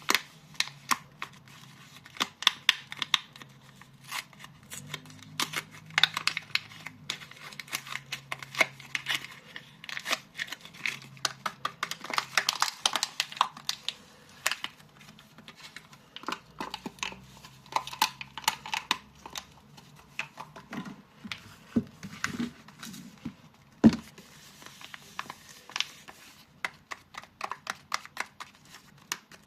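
Soap bar wrappers being handled, crinkled and torn open by hand: a dense run of crackling and rustling with many small sharp clicks, and one louder tap about three-quarters of the way through.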